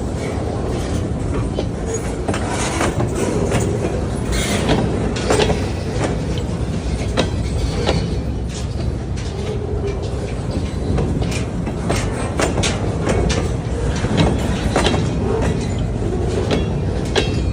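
Train rolling past close by: a steady heavy rumble with frequent clicks and clacks of wheels running over the rails.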